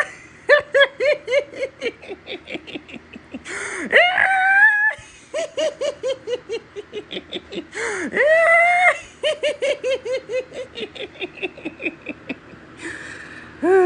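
A wheezing, squealing laugh: a long high-pitched squeal rising in pitch, then a fast string of short "ha" pulses, about five a second. The same cycle repeats three times, with a falling squeal right at the end.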